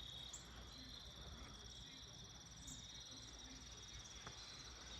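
Faint insect chorus, steady high-pitched trills at several pitches at once.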